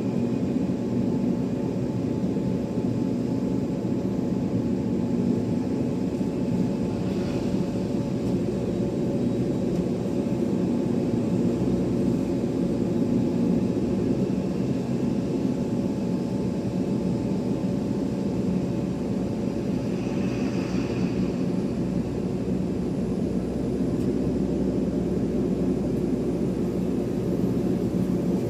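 Airliner jet engines running steadily at an airport: a constant drone with steady low tones underneath, unchanging throughout.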